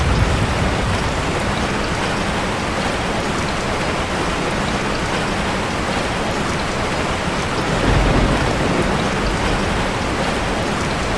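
Heavy rain falling steadily, with low rolls of thunder: one fading in the first second, and another swelling about eight seconds in.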